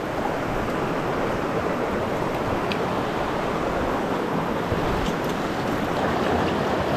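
Mountain stream rushing over rocks, a steady even wash of water noise.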